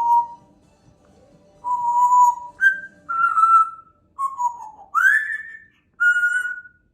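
African grey parrot whistling a tune: a run of about seven separate whistled notes, some held steady, some sliding down, one sliding up, after a short pause near the start.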